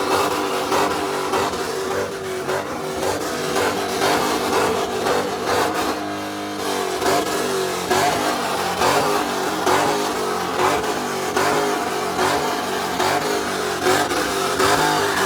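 Car engines revving and running loudly, several V8 muscle-car engines at once.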